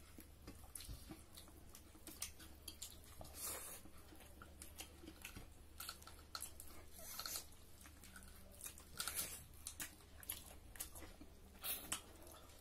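People chewing and biting into pieces of duck curry eaten by hand, heard as many short, irregular clicks and soft crunches.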